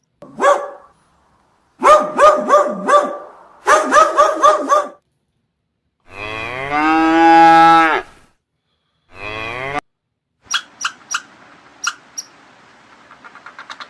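Farm animal calls: two quick runs of short, pitched cries in the first five seconds, then one long cow moo about six seconds in, the loudest sound. A shorter call follows, then a string of sharp clicks near the end.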